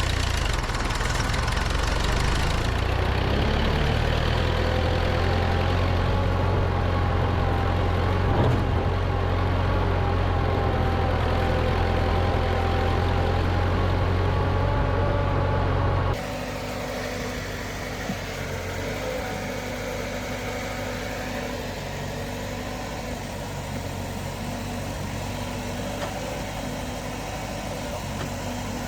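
Freshly rebuilt Allis-Chalmers i40 tractor engine running steadily. About two-thirds of the way through the sound drops suddenly to a quieter, duller running.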